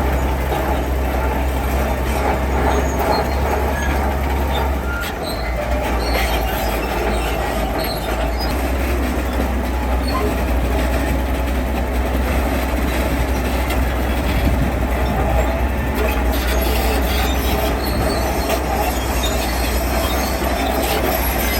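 Heavy diesel construction machinery working: a steady, loud engine drone with a continuous grinding mechanical noise over it, dipping briefly about five seconds in.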